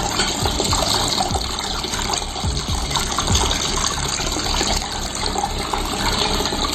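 Water pouring and splashing steadily down a small cement waterfall fountain.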